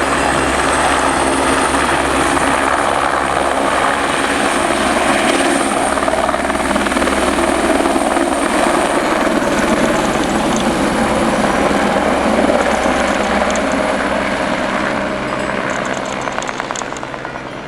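Helicopter running, a loud steady rotor and engine noise with a high whine over it for the first half, fading away from about 15 seconds in.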